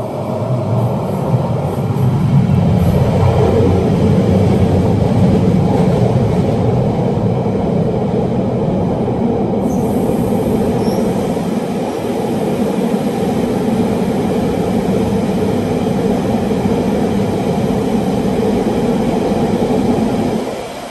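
Car-carrying shuttle train running through a tunnel: a loud, steady rail rumble heard from inside a car on an open carrier wagon, with the tunnel close around it. It grows louder over the first couple of seconds and falls away sharply near the end.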